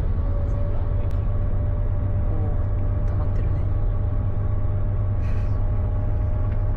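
Steady low rumble of a moving vehicle, even in level throughout, with a faint steady hum above it.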